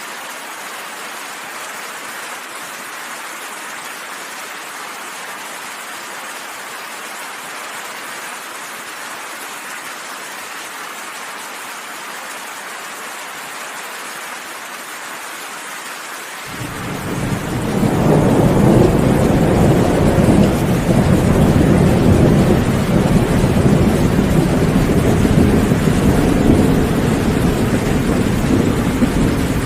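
Steady rain falling. A little past halfway a long, loud rumble of thunder swells in over a second or two and keeps rolling under the rain.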